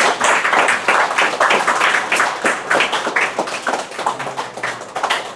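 A small group of people clapping, dense at first, then thinning to scattered claps that die away near the end.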